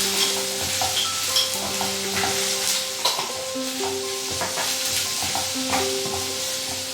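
Spices, onions and whole green chillies sizzling in hot coconut oil in a pan, with a utensil stirring and scraping through the mixture and knocking against the pan several times.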